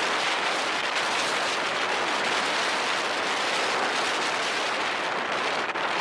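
Steady rush of wind on the microphone of a moving motorbike, an even hiss with no clear engine note.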